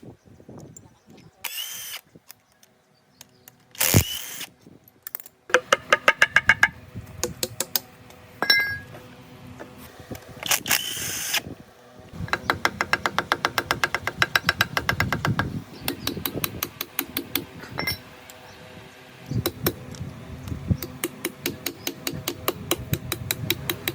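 Workshop tool work on engine parts: a few sharp knocks, then long runs of rapid, even mechanical clicking.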